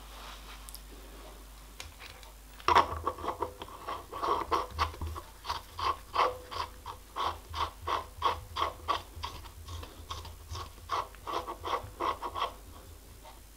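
Repeated short scraping strokes, about three a second, from hand work on metal. They start about three seconds in and stop near the end.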